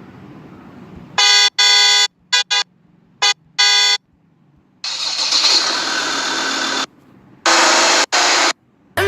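Car horn honked in a series of blasts: two longer ones, a few quick taps, a longer harsher blast, then two more. Each stops abruptly.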